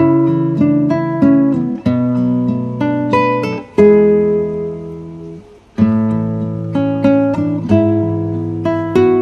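Acoustic guitar music: plucked notes and chords, each ringing and fading, with a short break a little past the middle before the playing resumes.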